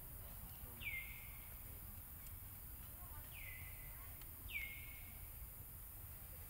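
A bird calling three times, each call a short whistle that drops quickly and levels off into a brief held note, over a faint low rumble of background noise.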